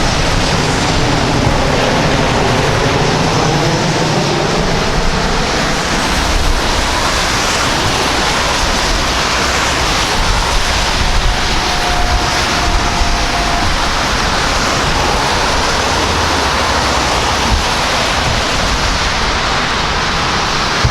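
Jet airliner's engines running close by, a loud steady rush of noise with faint shifting engine tones early on and a brief thin whine about halfway through.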